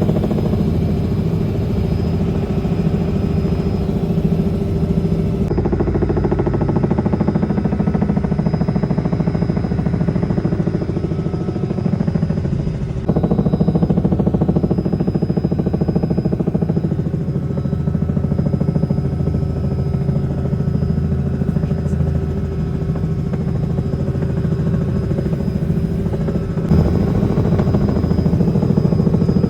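Helicopter engine and rotor noise: a loud, steady drone with a thin high whine over it.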